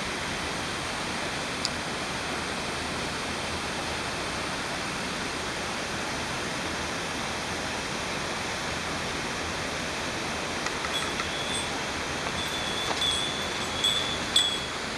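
Steady rush of water falling at a partly frozen waterfall, even and unchanging, with a few light clicks and two sharper knocks near the end.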